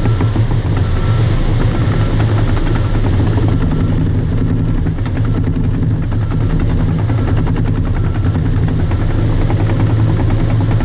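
Bulldozer's diesel engine running steadily under load while pushing topsoil, with the clicking clatter of its steel tracks.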